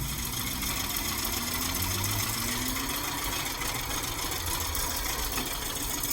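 A car engine running steadily under road noise. Its pitch climbs gently between about one and three seconds in as the car speeds up.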